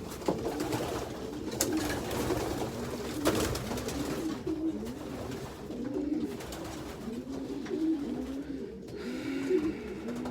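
Racing pigeons cooing, repeated overlapping coos in a steady stream, with a couple of light clicks in the first few seconds.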